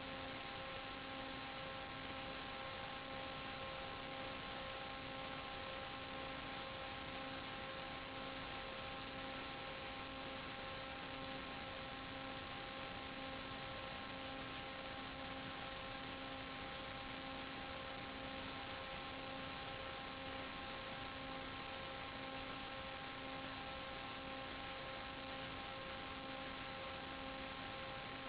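Steady electronic hiss with several constant whining tones and a lower tone pulsing on and off, unchanged throughout: electrical noise and interference carried on the audio channel of an analog 5.8 GHz FPV video link.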